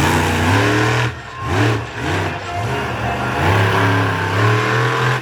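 Monster truck engine revving hard, its pitch rising and falling several times as the throttle is worked, with a brief lift off the throttle a little over a second in.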